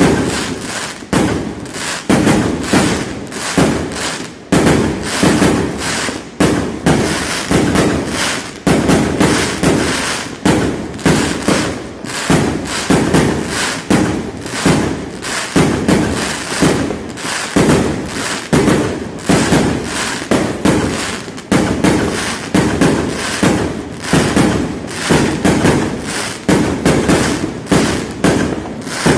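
Fireworks going off in a dense, continuous barrage, about two bangs a second, each dying away quickly into the next.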